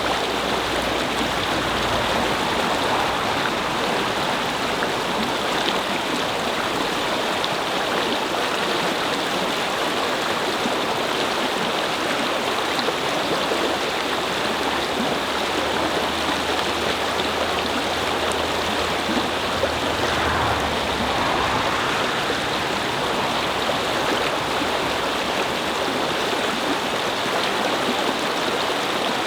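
A babbling brook, water flowing and splashing steadily over stones.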